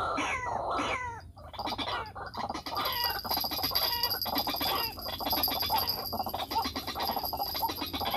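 White-breasted waterhen (ruak-ruak) calling: falling croaking notes about two a second at the start, then after a brief break a fast, dense run of clucking, croaking notes.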